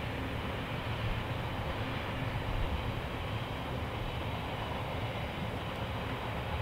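Container wagons of a distant intermodal freight train rolling past, a steady even noise of wheels on rail.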